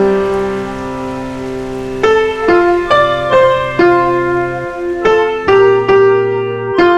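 Slow solo piano music: a chord held for about two seconds, then single notes and chords struck roughly every half second.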